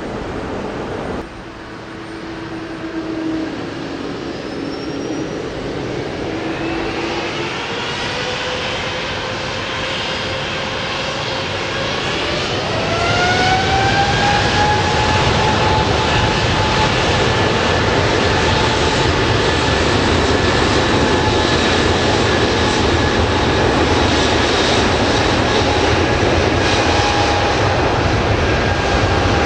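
Jet airliner's engines spooling up. A whine of several tones rises over several seconds and then holds steady at high power as the sound grows louder.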